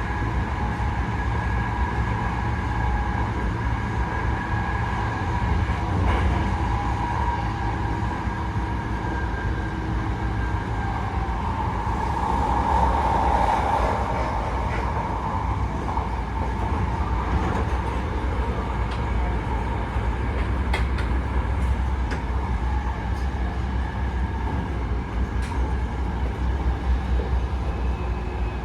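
Hankyu electric train cruising between stations, heard from inside the passenger car: a steady low running rumble with a held motor whine that swells briefly near the middle, and a few short clicks from the wheels in the second half.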